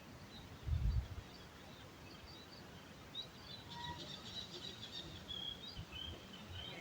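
Small birds chirping and twittering, a cluster of short high calls that grows busier after about three seconds, over a low outdoor background. A brief low thump about a second in.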